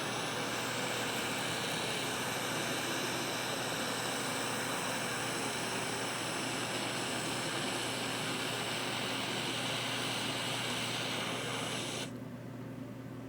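A small electric blower or fan runs steadily with a hiss and a high whine, then switches off abruptly near the end.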